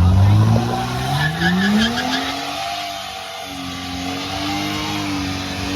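A car engine revving up over about two seconds and then held at high revs, its pitch wavering, while the tyres squeal as the car spins its wheels.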